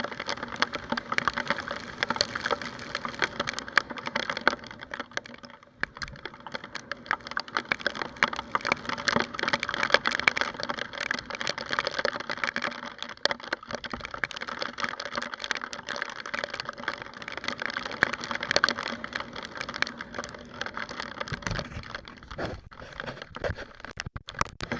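Raindrops pattering fast and irregularly on a motorbike's rear-mounted camera, over a faint steady hum.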